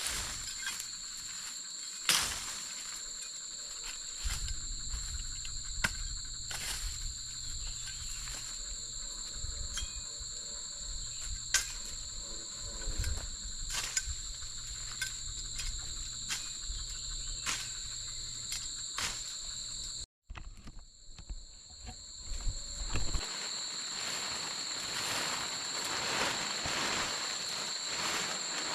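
Insects trilling steadily on two high pitches, with scattered clicks and knocks throughout. The sound cuts out briefly about twenty seconds in.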